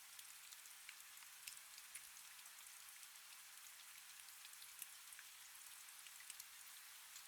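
Faint, steady rain: an even hiss with many separate drops ticking at irregular moments.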